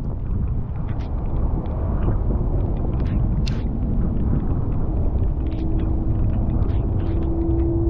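Steady rain with a deep rumble and scattered drops ticking. A faint steady hum grows louder near the end.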